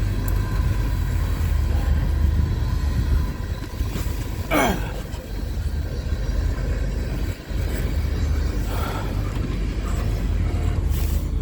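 Steady low rumble of a freight train rolling past, with a short squeal that falls in pitch about halfway through.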